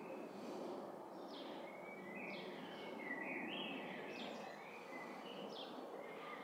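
Birds chirping in short high notes, roughly one a second, over a steady background noise.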